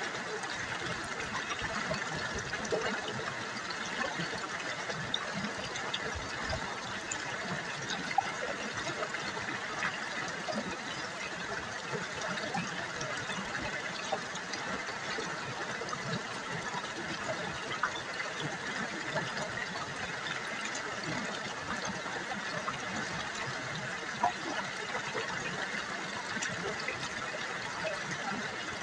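River water babbling and trickling steadily over stones, a continuous rushing patter with a few sharper splashes.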